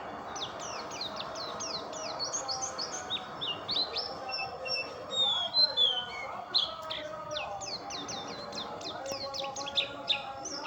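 White-eye (pleci) singing a fast, continuous stream of high, sharp down-slurred chirps.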